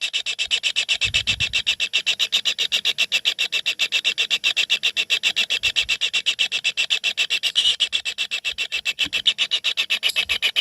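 Kingfisher nestlings in their nest hole giving a continuous rasping begging chorus: a rapid, steady pulsing at about ten beats a second.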